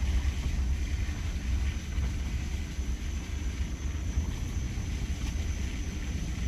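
Wind buffeting the microphone: a steady, wavering low rumble.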